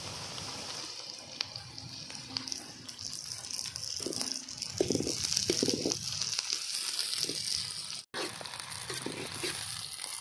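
Onions, curry leaves and green chillies frying in hot oil in a pan, with a steady high sizzle. Scattered clicks and a louder stretch of clatter come around the middle.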